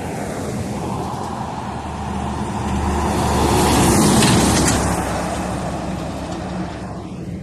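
Heavy truck driving past, its engine and tyre noise growing to a peak about four seconds in and then fading away.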